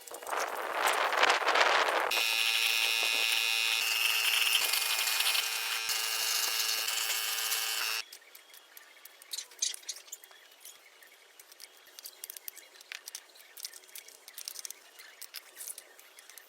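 A power tool running with a high whine for several seconds, then cutting off suddenly about eight seconds in, followed by light scattered ticks and taps.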